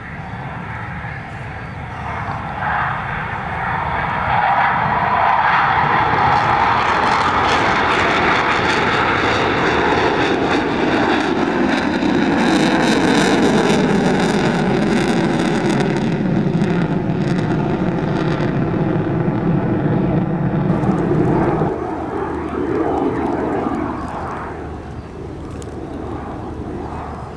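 An airplane flying past: its engine noise swells, stays loud while the pitch slides steadily downward as it goes by, then drops off about three quarters through and fades.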